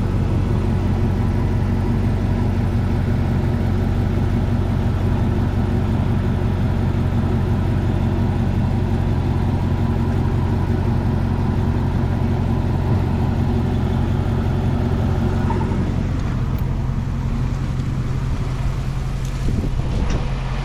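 A 2006 Dodge Charger R/T's 5.7-litre Hemi V8 idling steadily. It still has the misfire that a new crankshaft position sensor has, in the owner's judgement, only slightly eased.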